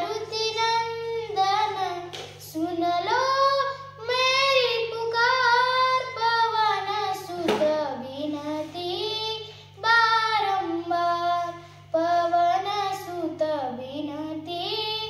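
A young girl singing a Marathi gavlan solo, in long melodic phrases with ornamented bends of pitch and short breaths between them, over a faint steady low hum.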